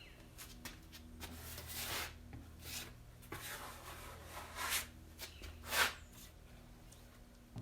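Short-strand fiberglass body filler being spread and scraped across a steel truck door skin with a filler spreader, in about three rasping strokes, the last one short and the loudest.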